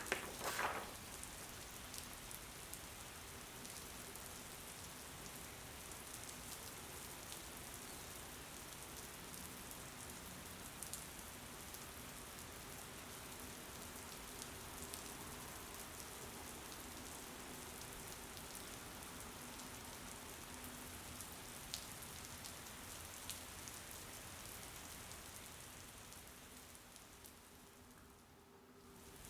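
Steady rain falling on a surface, an even patter with scattered sharper drops and a few louder splashes at the start. Near the end the rain gradually fades down, then swells back up.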